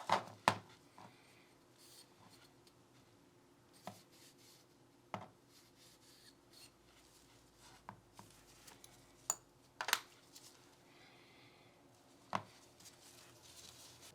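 Handling of Glock 19 pistol parts: a few sharp clicks and knocks of hard polymer and metal pieces being handled and set down, with soft rubbing or wiping between them.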